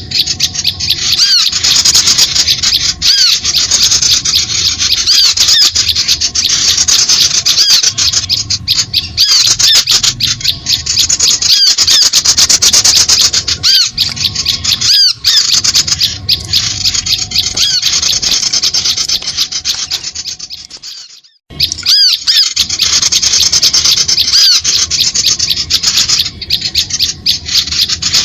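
Recorded bird-lure call: dense, rapid high chattering and chirping of small songbirds, played loud and continuous. It fades out about twenty seconds in and starts again a moment later, like a looped track.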